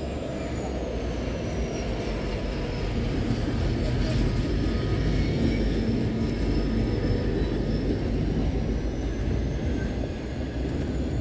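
A train running with a steady low rumble that builds slightly, and a thin high whine that dips in pitch and rises again.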